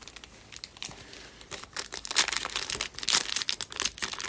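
Foil trading-card pack wrapper crinkling and tearing as it is opened, faint at first and much louder from about two seconds in.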